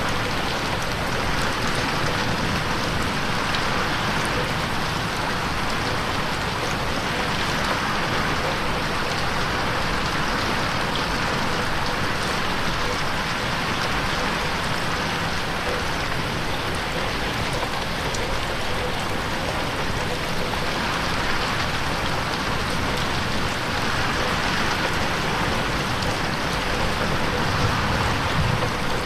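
Steady rain falling on a window pane, an even hiss with no let-up, mixed in 8D so it slowly swells and shifts around the head.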